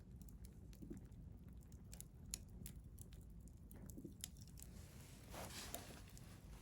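Wood fire burning in a stainless steel fire grill, crackling with scattered sharp pops over a low steady rumble, with a brief hiss a little past five seconds in.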